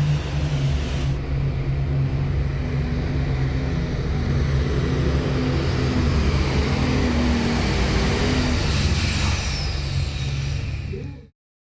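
Super stock diesel pulling tractor's engine running hard and steady under a very high turbocharger whistle. The whistle slides down in pitch about nine seconds in, and then all sound cuts off suddenly.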